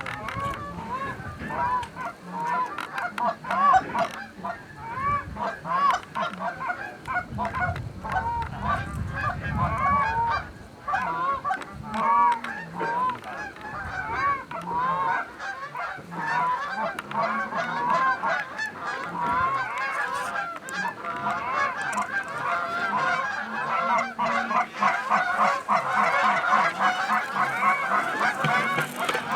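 A flock of Canada geese honking, many short calls overlapping, growing thicker toward the end.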